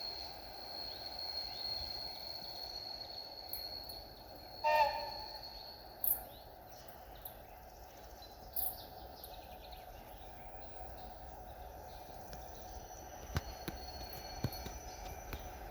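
Steady, fairly faint rumble of a freight train hauled by a VL10u electric locomotive, still some way off, with birds calling over it and one short sharp call about five seconds in.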